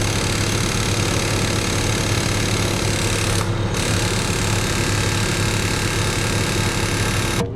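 Mini excavator's diesel engine running steadily with a low hum, cutting off suddenly near the end.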